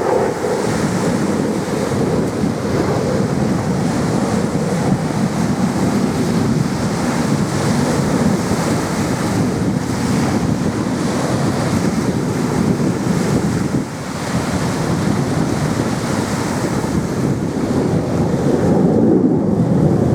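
Steady rushing jet noise from aerobatic display jets in flight, swelling toward the end.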